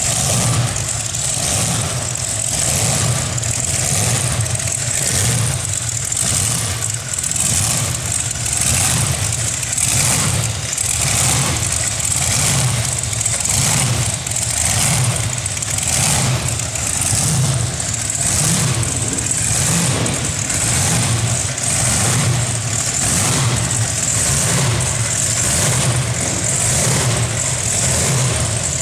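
Twin supercharged 426 Hemi V8 engines running through open zoomie headers at a lumpy idle, the sound swelling and dipping about once a second.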